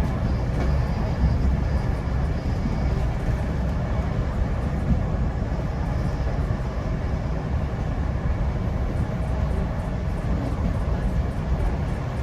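GO Transit commuter train running steadily along the track, a continuous low rumble of wheels on rails heard from on board. A faint, quick regular ticking comes in near the end.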